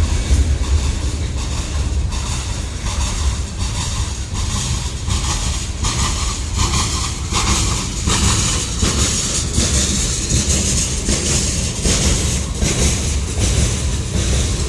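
Norfolk Southern freight train cars rolling past close by with a steady heavy rumble, the wheels clicking over rail joints again and again. A few short tones come in partway through.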